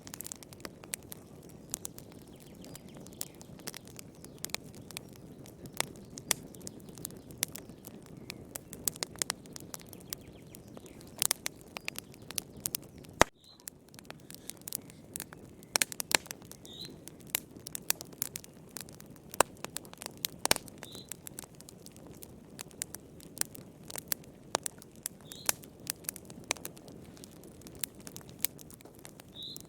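Wood fire crackling, with irregular sharp pops and snaps over a low, steady rumble. Faint short high chirps come about every four seconds, and the sound drops out for an instant about a third of the way in.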